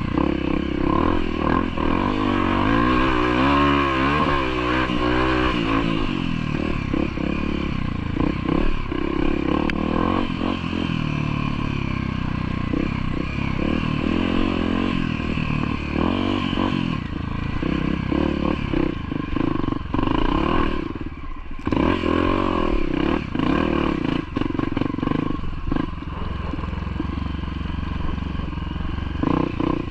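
Off-road motorcycle engine running over rough ground, its revs rising and falling with the throttle, with scattered knocks and rattles. The engine briefly eases off about two-thirds of the way through.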